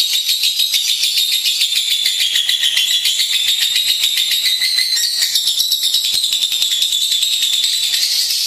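Lovebird singing a rapid, unbroken chattering trill of fast high chips that goes on without a pause.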